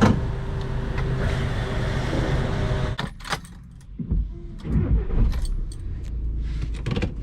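Car interior noise: engine and tyre rumble in the cabin, dropping about three seconds in as the car slows. After that come a series of sharp clicks, light rattles and low thumps.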